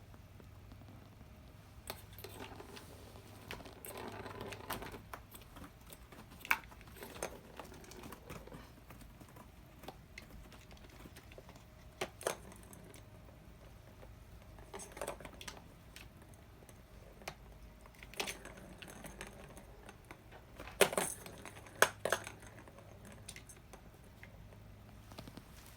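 Kittens playing with toys: scattered light taps, clicks and rustling scuffles, the loudest taps coming in a quick cluster near the end.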